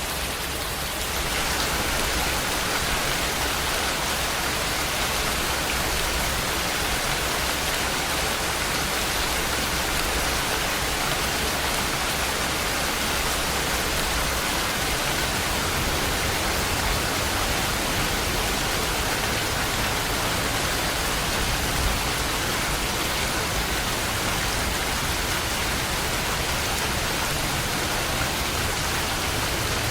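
Steady rain falling as an even hiss, a little louder from about a second in.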